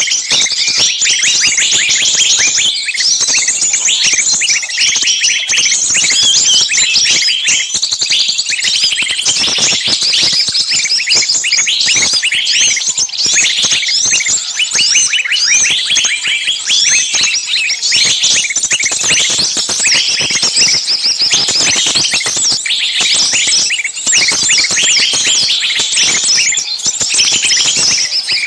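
Dense chorus of many small birds chirping at once, a continuous overlapping chatter of short high calls.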